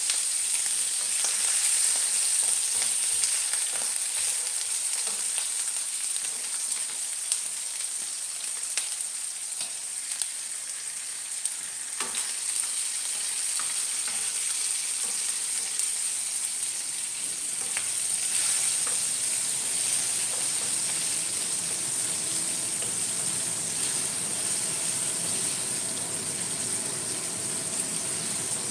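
Garlic, spring onion whites and red chili sizzling steadily in hot oil in a stainless-steel wok while a wooden spatula stirs them, with a few sharp clicks.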